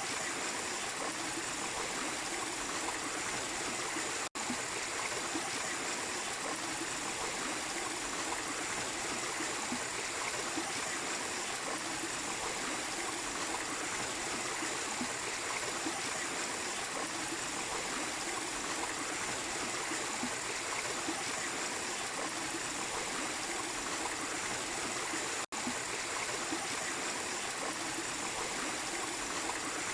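Water from a small waterfall and stream running steadily. It cuts out for an instant twice, about 4 and 25 seconds in.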